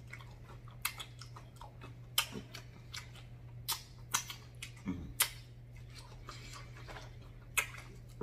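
Close-miked eating mouth sounds: chewing and lip smacking, with about ten sharp wet clicks at irregular moments. Fingers are sucked clean about four seconds in. A low steady hum runs underneath.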